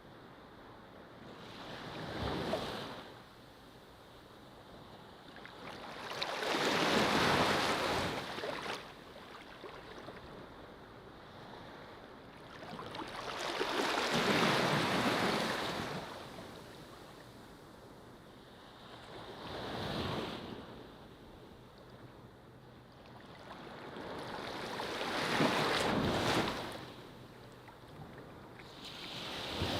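Ocean waves breaking and washing up a beach, five surges in half a minute, each swelling and falling away over a steady hiss of surf.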